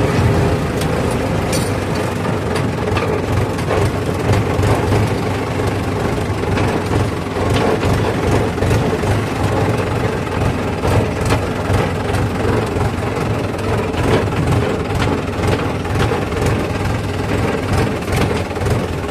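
Diesel engine of heavy farm machinery running steadily, with a low throbbing hum and scattered clicks and knocks.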